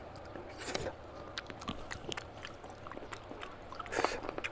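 A person chewing and smacking a mouthful of oily mutton fat curry and rice, heard as a run of short, wet mouth clicks. Two louder smacks come about a second in and near the end.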